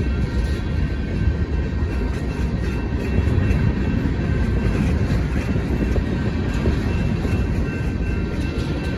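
Freight train rolling past on the rails: a steady low rumble with faint steady high-pitched tones above it.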